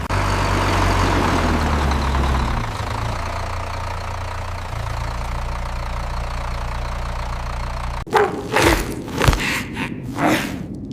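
Tractor engine running with a steady low hum that shifts pitch a couple of times, then cuts off suddenly about eight seconds in. A few thumps and rustles follow.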